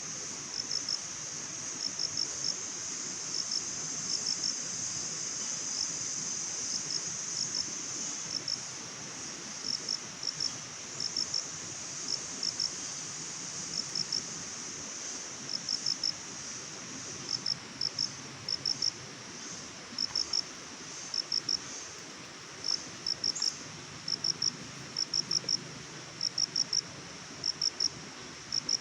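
Crickets chirping in short clusters of two to four pulses, about once or twice a second, over a steady high insect trill that weakens after about eight seconds. A soft, even hiss lies underneath.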